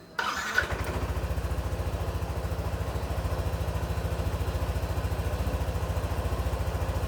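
Motorcycle engine started on the electric starter: a short starter whirr, the engine catching within about half a second, then idling steadily with an even pulse.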